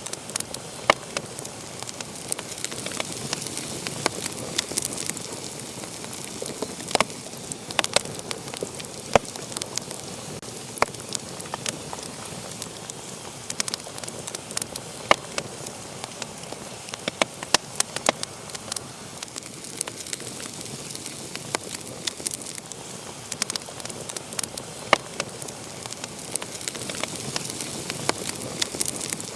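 Wood fire burning in a fireplace: a steady hiss with irregular sharp crackles and pops, several louder snaps scattered throughout.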